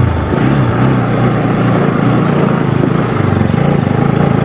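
Motorcycle engine running while being ridden on a rough off-road track, its pitch rising and falling with the throttle.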